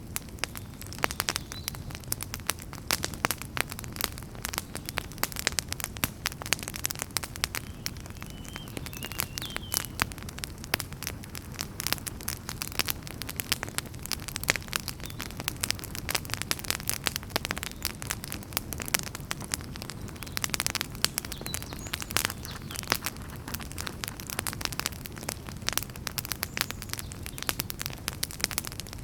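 Wood fire burning in a fireplace: dense, irregular crackles and pops over a steady low rush of flame, with a faint high whistle now and then.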